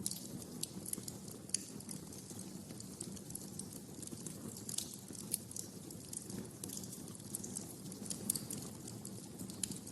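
Wood fire crackling in a fireplace: a steady low rumble of the flames under irregular sharp snaps and pops, a few louder pops scattered through.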